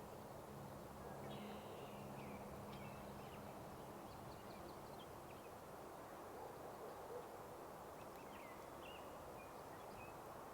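Faint outdoor ambience with scattered short, high bird chirps from small songbirds, and a faint low steady hum in the first few seconds.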